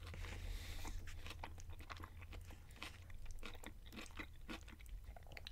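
Close-miked chewing of a mouthful of a beef and lettuce power bowl: wet crunching with many small crackles and mouth clicks, over a steady low hum.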